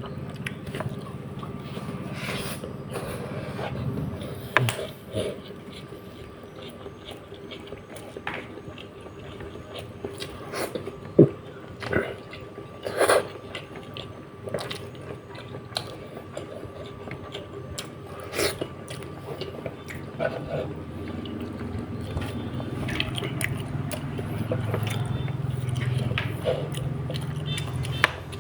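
A person eating a spiced patin (pangasius catfish) head: wet chewing and lip smacks with scattered sharp clicks at irregular moments, over a faint steady hum.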